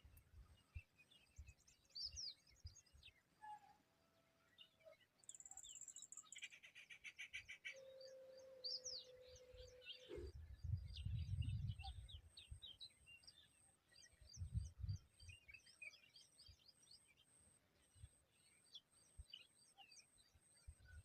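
Faint, scattered bird chirps and tweets, with a short rapid buzzing trill about five seconds in and low rumbles around ten and fifteen seconds in.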